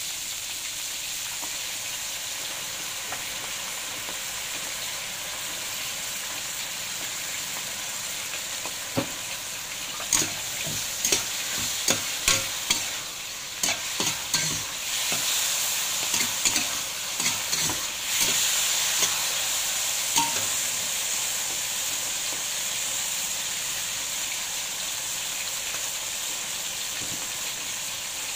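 Eggplant pieces frying in oil in a wok with a steady sizzle. From about a third of the way in, a metal spatula stirs and tosses them, scraping and clinking against the wok for about ten seconds, then the sizzle goes on alone.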